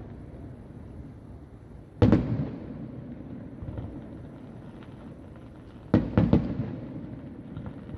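Fireworks heard from about a kilometre away: one sharp bang about two seconds in, then three bangs in quick succession around six seconds, each trailing off in an echo, over a steady low rumble of more distant bursts.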